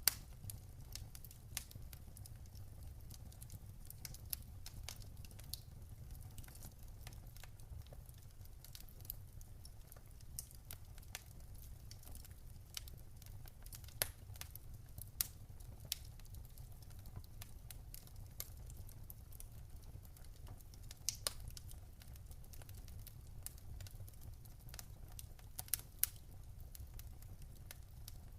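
Wood fire burning in a fireplace, crackling with irregular sharp pops and snaps over a low steady rumble, with a few louder pops now and then.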